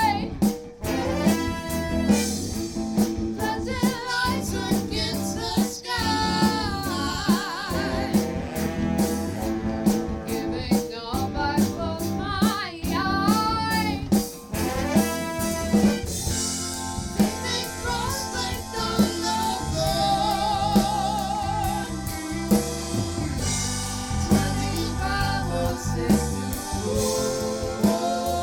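Soul band playing live, with a singer holding wavering, vibrato notes over a drum kit keeping a steady beat.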